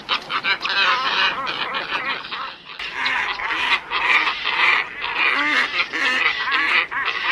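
A flock of glossy ibises calling, with many short calls overlapping in a continuous chorus and a brief lull about two and a half seconds in.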